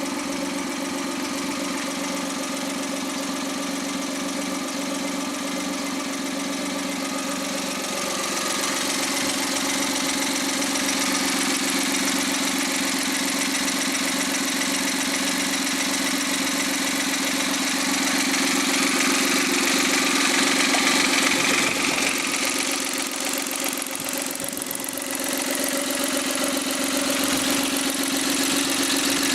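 Suzuki K6A three-cylinder turbo engine running on a post-overhaul test run, mostly at a steady idle. It gets louder about eight seconds in, swells again around twenty seconds in, then dips briefly before settling back.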